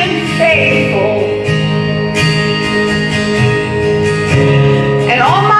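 A gospel song with acoustic guitar accompaniment. A sung line ends about a second in, the guitar carries a short instrumental gap, and the voice comes back in near the end.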